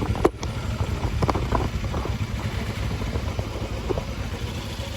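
Motorcycle riding over a rough, dusty riverbed off-road track: a steady low rumble with a few sharp knocks and rattles.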